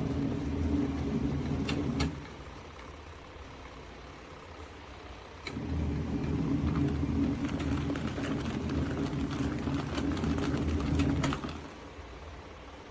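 Small portable twin-tub washing machine's electric motor running with a steady low hum. It stops about two seconds in, starts again a few seconds later, runs for about six seconds and stops again, with faint clicks in between.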